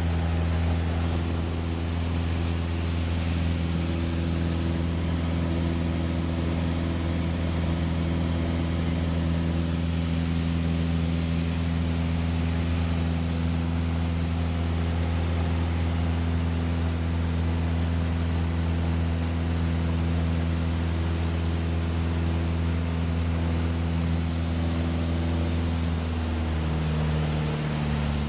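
Light airplane's piston engine running steadily, with a low, even drone. Its pitch drops slightly near the end.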